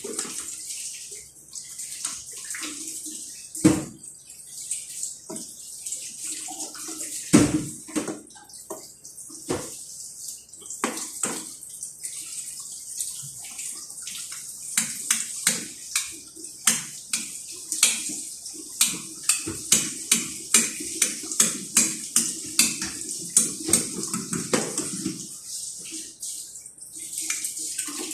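Kitchen clatter: metal utensils and dishes clinking, with water splashing. Through the second half the clinks come in a regular run, about one and a half a second.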